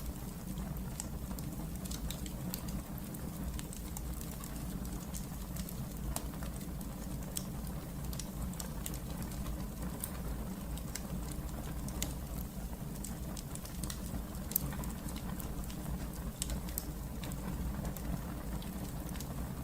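Wood fire burning in a fireplace: irregular sharp crackles and pops over a steady low rumble of the flames, with one louder pop about two-thirds of the way through.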